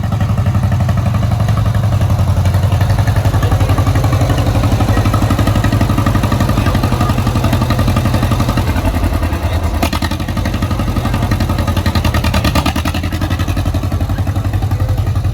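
A vehicle's engine running loudly through its exhaust, a fast, even pulse that holds steady throughout.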